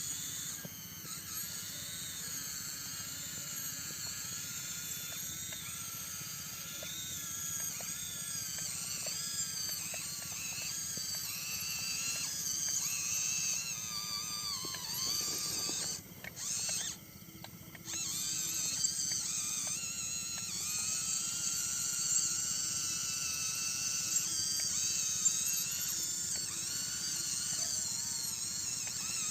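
Night chorus of insects trilling and chirping from the rice field, many high wavering calls overlapping, over a low steady hum; the sound drops briefly about two-thirds of the way through.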